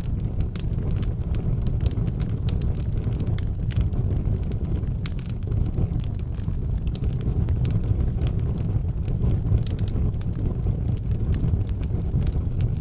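Wood fire burning in an outdoor fireplace: a steady low rumble of flames with frequent sharp crackles and pops throughout.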